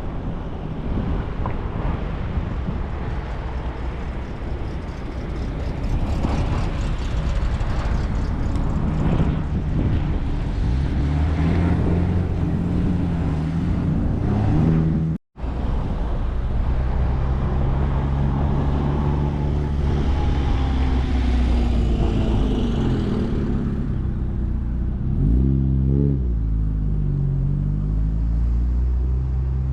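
Car engines running as cars drive past, with wind noise on the microphone. Near the end an engine revs up and falls back. The sound drops out for an instant about halfway through.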